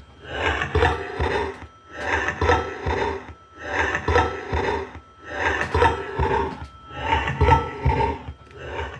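A short, raspy, distorted voice-like snippet from a slowed-down, pitch-shifted audio recording, looped about five times with a brief gap between passes. The recordist hears it as the EVP "Dad loves bird". A faint steady high ringing tone runs underneath.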